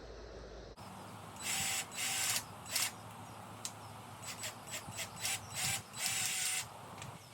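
A grease gun worked in a series of short bursts, about eight, as grease is pumped into the drive-shaft fittings of a John Deere 468 round baler.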